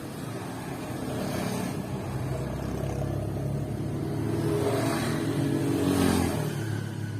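A motor vehicle's engine rumbling, growing louder to a peak about six seconds in and then fading as it passes.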